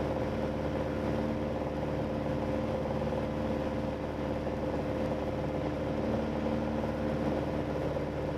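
Steady drone of a 1973 Piper PA-28-180 Cherokee Archer's four-cylinder piston engine and propeller in cruise, heard inside the cockpit.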